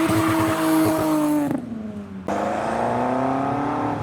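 Car engine pulling hard at high revs as the car accelerates away. About a second and a half in it cuts out briefly for a gear change, then climbs again in the next gear.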